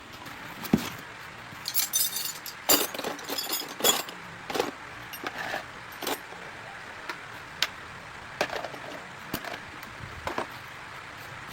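Metal hand tools clinking and clattering as they are handled: a string of irregular knocks and clinks, some ringing briefly, thickest about two to four seconds in.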